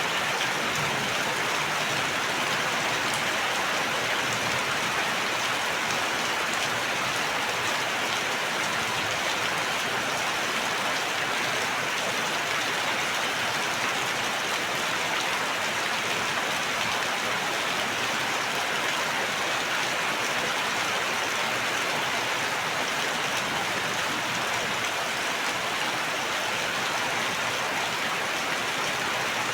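Steady rain falling on a surface, an even hiss of many drops with no thunder or breaks.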